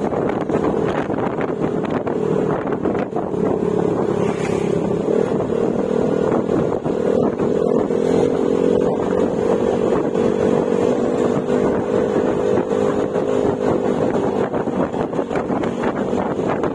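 Yamaha Mio Gravis 125 cc single-cylinder scooter engine running at a fairly steady cruising speed through an aftermarket Akrapovic exhaust with silencer, with wind rushing over the microphone.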